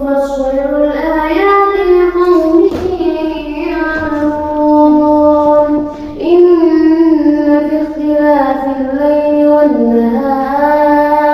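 Quran recited in the melodic tajweed style by one solo voice, holding long drawn-out notes that bend slowly in pitch. There is a short break for breath about six seconds in.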